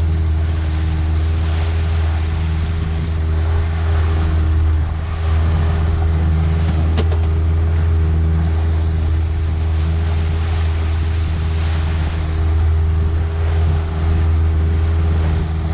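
Motorboat engine running steadily under way, a constant low drone with water rushing past the hull.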